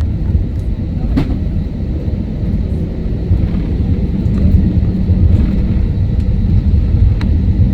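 Airbus A321 cabin noise on the ground: a steady low rumble of the jet engines and airframe, typical of taxiing before takeoff, with a sharp click about a second in.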